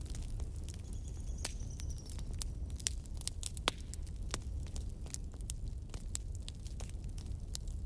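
Wood fire burning in a fireplace, crackling with frequent sharp pops over a steady low rumble. A faint high whistle sounds briefly about a second in.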